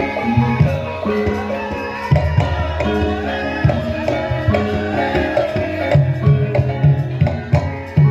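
Live Javanese gamelan music for a lengger dance: ringing metal keyed instruments over hand-drum strokes, with deep sustained low gong-like notes.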